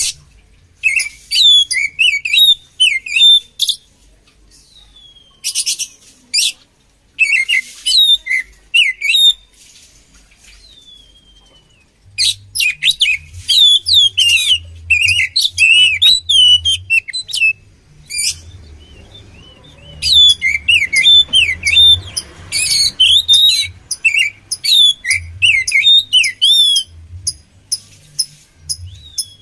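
Oriental magpie-robin (kacer) singing: bursts of fast, varied whistles and chattering notes, each lasting a second or two, with short pauses between them.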